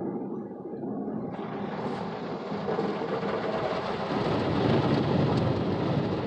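Automatic car wash working on the car, heard from inside the cabin: a steady rushing, rain-like noise of water spray striking the body, which thins briefly at the start and fills in again about a second and a half in.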